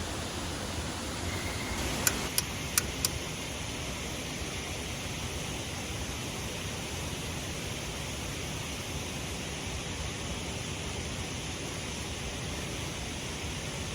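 Steady rushing of a waterfall, with four sharp clicks or taps in quick succession about two seconds in.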